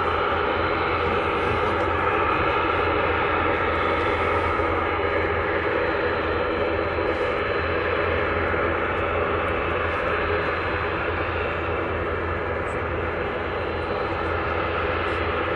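Turboprop airliner's engines and propellers running steadily, with a constant low hum under a dense engine noise.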